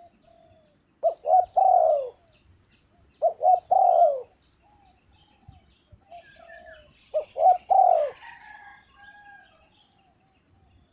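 Spotted dove calling: three phrases about a second in, near four seconds and around seven seconds, each two short clipped notes followed by a longer coo that falls in pitch. Softer coos and faint high chirps of other birds come in between.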